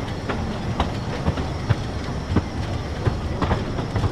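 A 2 ft 3 in gauge narrow-gauge train running along the track: a steady rumble with irregular clicks of the wheels over the rail joints.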